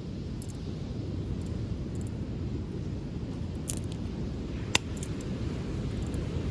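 Beach bonfire crackling, with a few scattered pops and one sharp snap a little before five seconds in, over a steady low rumble.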